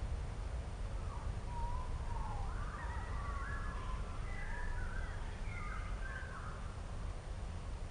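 Birds calling in short, gliding, warbling phrases from about a second in until near the end, over a steady low rumble.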